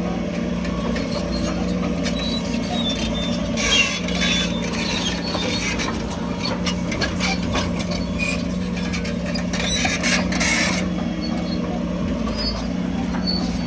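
Crawler bulldozer's diesel engine running steadily, with squealing and clanking from its tracks, loudest about four seconds in and again near ten seconds.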